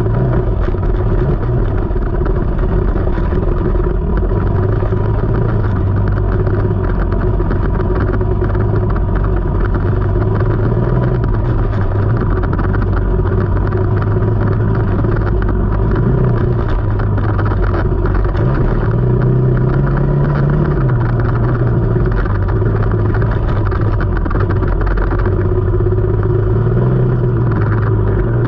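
KTM 300 two-stroke dirt bike engine running under way, heard close up, holding fairly steady revs with a short rise in pitch about two-thirds of the way through.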